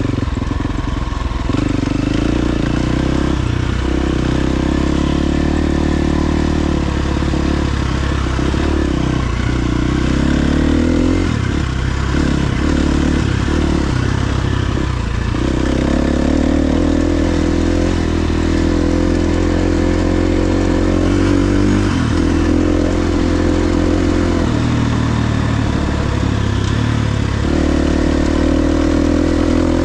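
KTM XC-F 350's single-cylinder four-stroke engine running under way, its pitch rising and falling repeatedly, with several short dips in the middle as the throttle is rolled off and on.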